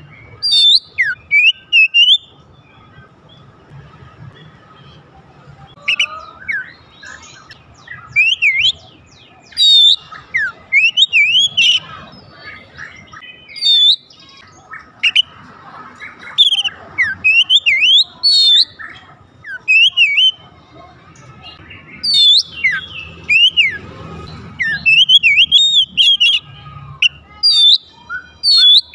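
Oriental magpie-robin singing: loud, clear whistled phrases of rising and falling notes, delivered in bursts with short pauses between.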